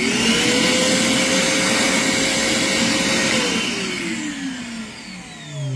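Vacmaster VOM205P 2.5-gallon wet/dry vacuum running in blower mode: a steady motor whine with rushing air. About three seconds in it is switched off and winds down, the whine falling in pitch and fading.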